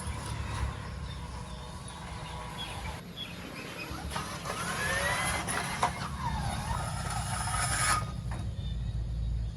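Small RC truck's electric motor and drivetrain running over a steady low drone, with a whine that rises and falls in pitch in the middle.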